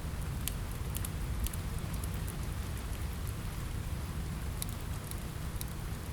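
Steady rain on a window mixed with a crackling wood fire: an even wash of rain over a deep low rumble, with a handful of sharp pops scattered through.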